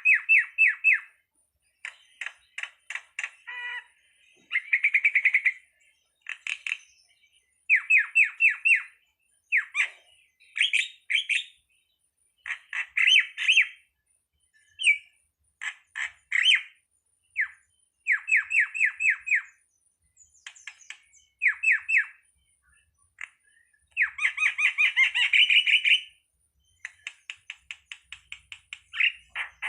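Jalak (starling) calling: short bursts of rapid, harsh chattering notes, each burst lasting about half a second to a second and repeating every second or two, with a longer, denser burst near the end.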